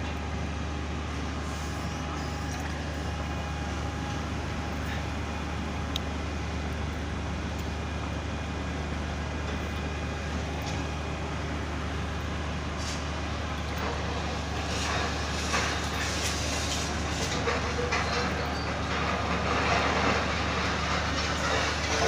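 Truck-mounted concrete pump's diesel engine running steadily under load while pumping concrete. Clattering and noise from the work get louder about two-thirds of the way in.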